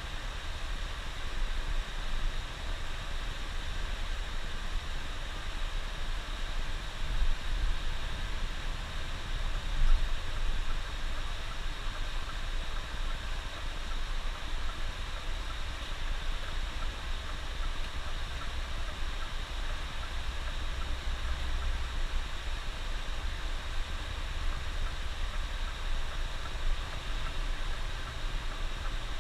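Steady engine rumble and road noise inside a moving bus, with a couple of brief louder knocks a few seconds in.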